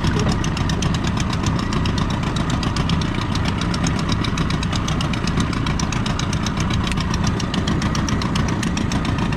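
Boat engine running steadily at idle or low speed while the boat is manoeuvred in to come alongside a jetty.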